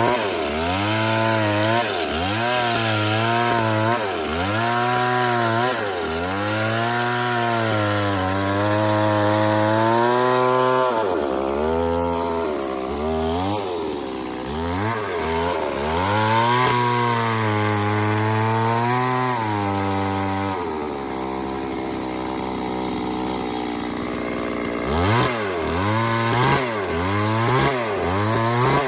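Chainsaw running and cutting wood, its engine pitch repeatedly falling and rising again, about once a second at times. About three-quarters of the way through it drops to a steady idle for a few seconds, then revs up and down again.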